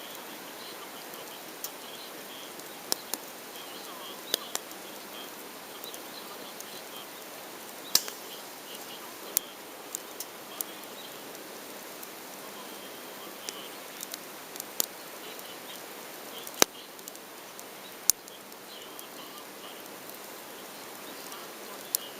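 Wood campfire crackling: sharp, irregular pops over a steady hiss, a few of them much louder than the rest.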